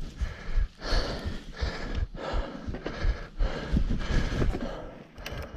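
Mountain biker breathing hard into the camera microphone, a quick breath about every half second to second, over a low rumble of riding on a dirt trail.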